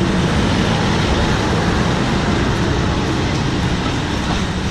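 Passenger train running past close by: a steady rumble of wheels on rails that slowly fades.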